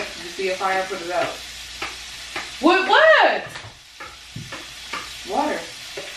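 Food sizzling in a pan on the stove and a spoon clicking as it stirs in a mixing bowl. Over it, a person makes wordless vocal sounds that rise and fall in pitch, loudest about three seconds in.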